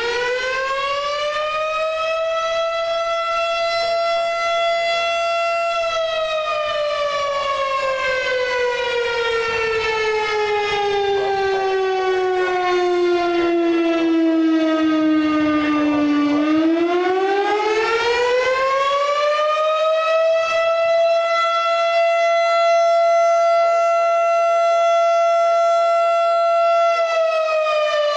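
Federal Signal STH 10 fire station siren wailing: it winds up to a steady high pitch and holds it, slowly winds down to a low growl over about ten seconds, then winds quickly back up and holds again, beginning to fall near the end. It is the house siren calling out volunteer firefighters for a call.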